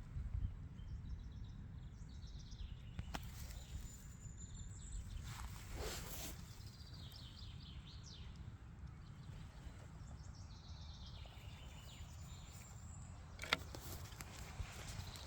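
Forest ambience: scattered bird calls over a steady low rumble, with a few sharp snaps or knocks, the loudest about two seconds before the end.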